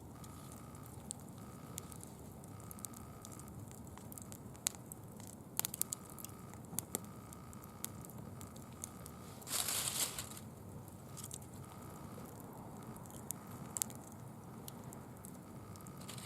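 Small bonfire of dry fallen leaves crackling, with sharp pops scattered through and a brief, louder crinkling rush about ten seconds in.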